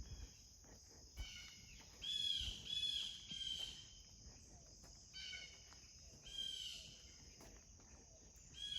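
Insects keep up a steady high-pitched hiss, over which a bird gives several short, harsh calls in quick groups: a run of them in the first few seconds, then a few more later.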